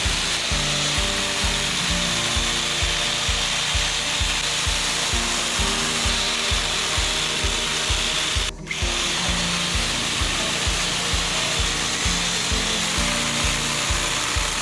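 A power tool shaping wood, a steady abrasive hiss that breaks off briefly about halfway through, over background music with a steady beat.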